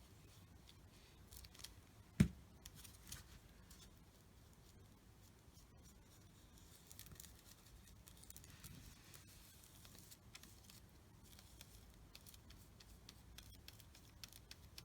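Faint scratching and small clicks of a damp paintbrush working white paint onto paper, with one sharp knock about two seconds in.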